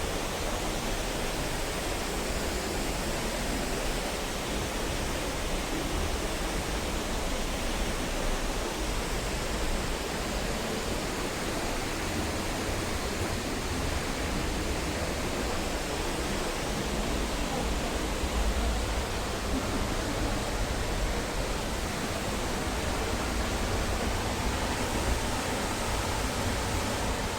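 Steady rush of falling water from a waterfall, an even noise that holds at the same level throughout.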